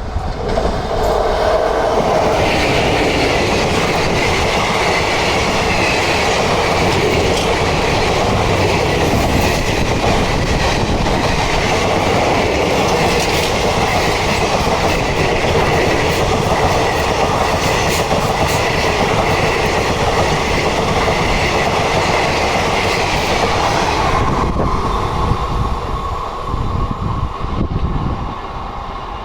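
Samta Express passenger train passing close by, its wheels clattering over the rail joints in a loud, steady rush. A few seconds before the end the rush drops away suddenly, leaving a fainter sound with a steady tone.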